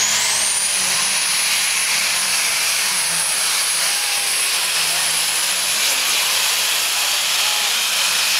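Turbocharged pulling tractor under full power: a high turbo whine finishes climbing in pitch about half a second in and then holds steady over the engine's dense noise.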